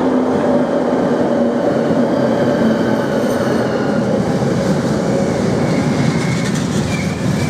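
A train running past at the station: a loud, steady rumble of wheels on rails and running gear, with a low hum that fades in the first second or two.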